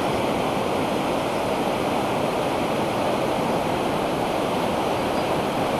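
River rapids and a low waterfall rushing in a steady, unbroken roar.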